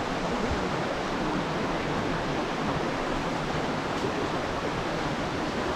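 Rushing water of the beck below Thomason Foss waterfall, a steady, even hiss.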